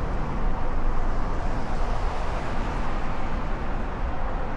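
Steady rushing wind and road noise while riding an e-bike along a city street, with traffic.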